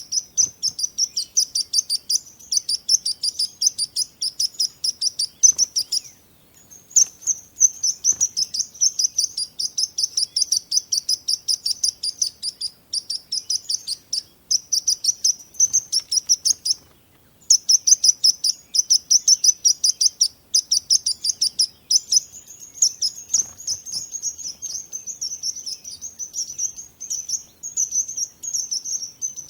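Small songbirds chirping rapidly and continuously in quick high-pitched notes, several a second, with two short breaks, the first about a fifth of the way in and the second a little past halfway.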